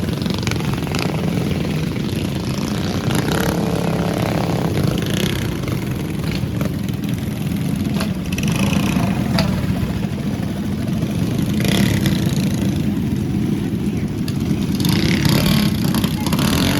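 Small mini bike engines running steadily, a loud continuous engine drone.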